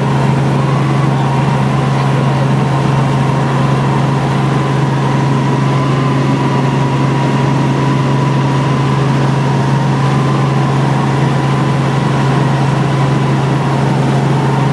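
Helicopter running steadily: a loud, constant low drone with a thin, slightly wavering high whine over a wash of noise.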